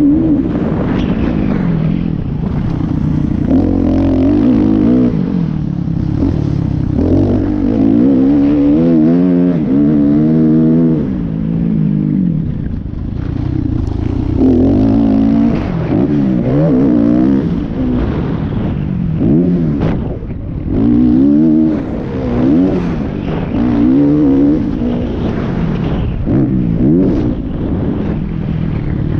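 Motocross motorcycle engines running hard, their pitch rising and falling again and again as the throttle is opened and closed, with quick warbles in places.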